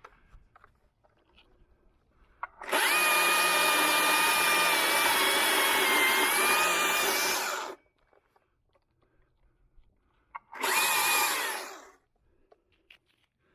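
Chainsaw running at full speed for about five seconds, starting and stopping abruptly, then a second short burst of about a second that winds down as it stops.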